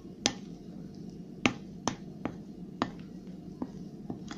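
Spoon stirring yeast dough in a bowl, knocking against the bowl's side in sharp, irregular clicks, about seven of them.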